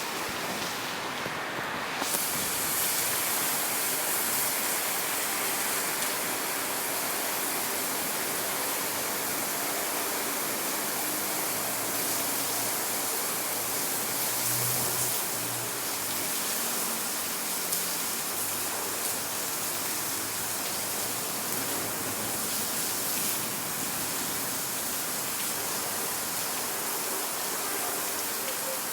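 Heavy rain pouring down in a violent storm, a steady unbroken hiss.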